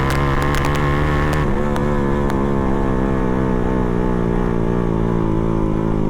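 Yamaha FZ motorcycle engine with a full-system Akrapovic exhaust, running steadily at idle with a slight waver in pitch, a deep, rough exhaust note.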